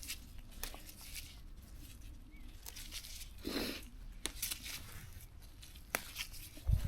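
Garlic mustard stems being snapped off by hand and the leaves rustling, a scatter of small sharp snaps and crinkles.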